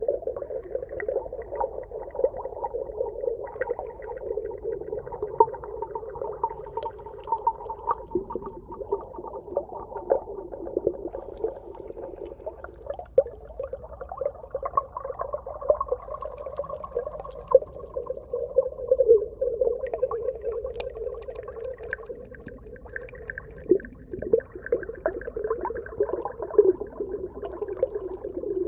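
Underwater ambience: a steady, muffled wash with many small clicks and pops scattered through it.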